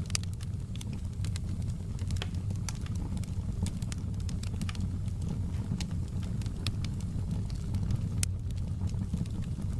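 Wood fire crackling in a fireplace: a steady low rumble of burning with scattered sharp pops and snaps, one louder snap about eight seconds in.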